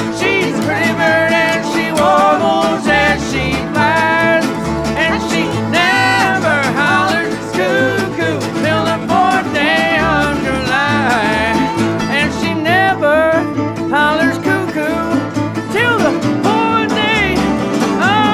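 Old-time string band of acoustic guitar, resonator guitar, bass and mandolin playing an instrumental break, with a lead line of sliding, bending notes over plucked bass notes.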